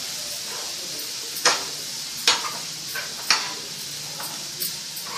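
Grated carrot frying in ghee in a metal pan, a steady sizzle, while a spoon stirs it and clinks sharply against the pan a few times, most loudly three times around the middle.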